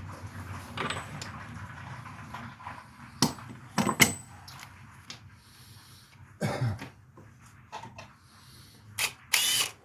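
Hand tools and metal parts clinking and knocking in separate sharp knocks, during work on a car's front wheel bearing and its fasteners. There is a louder, longer clatter near the end.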